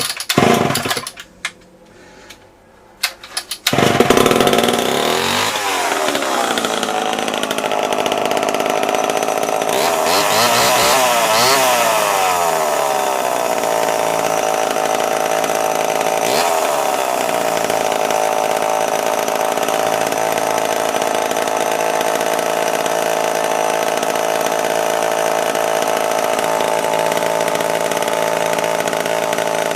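1974 Homelite XL-12 two-stroke chainsaw being pull-started: a couple of cord pulls, then about four seconds in the engine catches and runs. It revs up and down a few times, then holds a steady speed.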